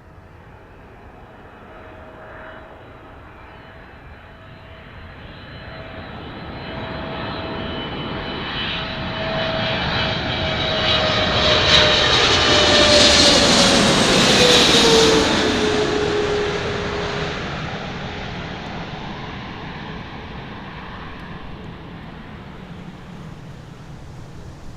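A jet airliner passes close overhead. Its engine noise swells to a peak about halfway through and then fades, with a high whine and a steady tone that drops in pitch as the aircraft goes by.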